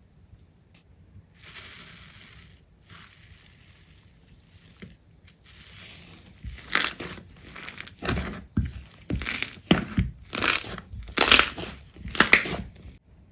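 Crunchy slime being squeezed and pressed by hand: soft rustling at first, then from about halfway a run of about seven loud crunches, roughly one a second.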